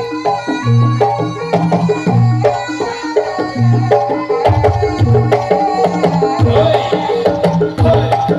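Live jaranan accompaniment music: a gamelan-style ensemble with drums beating a steady rhythm under a stepping melody of tuned percussion.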